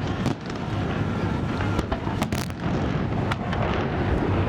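Fireworks salute going off: a series of sharp bangs over a steady low rumble.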